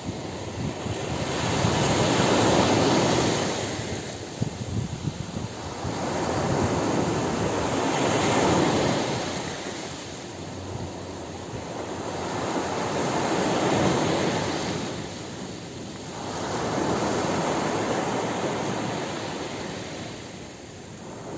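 Ocean surf breaking on a beach. Four waves swell and wash in, each a few seconds apart, with the rush of water fading between them.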